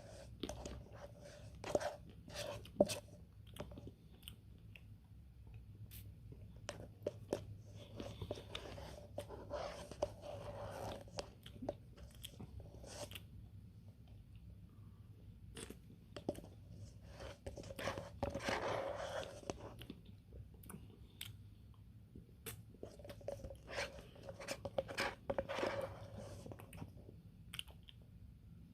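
Close-up eating sounds: a person chewing and crunching a Dairy Queen Smarties Blizzard, frozen ice cream with chocolate candy pieces, with wet mouth smacks and sharp clicks. There are denser spells of chewing several times through.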